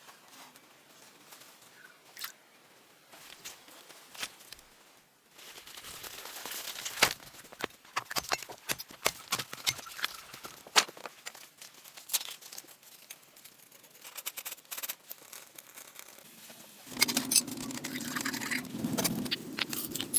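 Irregular scraping, crunching and sharp knocks of hand work with tools or materials: sparse at first, busier about five seconds in, and a denser, fuller stretch of scraping near the end.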